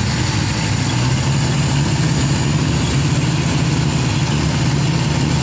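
Toyota K-series four-cylinder pushrod engine idling steadily on a test stand while its distributor is turned by hand to set the ignition timing by ear, without a timing light.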